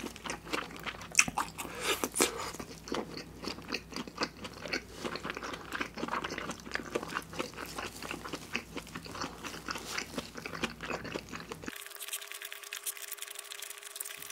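Close-miked chewing of a bacon burger with thick whole-strip bacon, a dense run of wet clicks and small crunches as it is bitten and chewed. The chewing stops near the end, leaving a faint steady hum.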